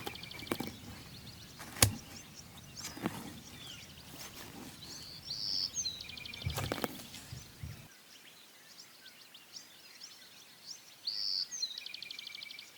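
A songbird repeating the same short song, a high note followed by a fast trill, about every six seconds. Sharp clicks are scattered through, the loudest a little under two seconds in.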